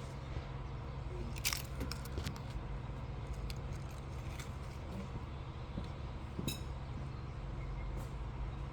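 Car keys jingling faintly with a few light clicks, about one and a half and six and a half seconds in, over a steady low hum.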